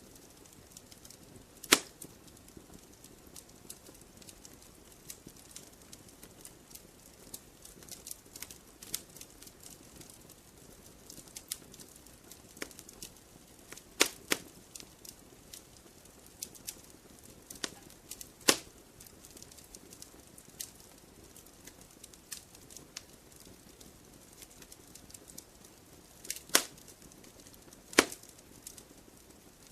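Wood fire crackling in a fireplace: a steady scatter of small clicks over a faint hiss, with a handful of louder, sharp pops.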